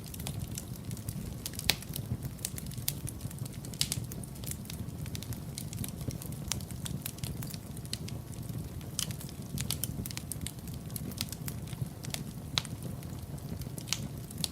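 Wood fire crackling in a fireplace: irregular sharp pops and snaps over a steady low rumble of flames, with one louder pop about two seconds in.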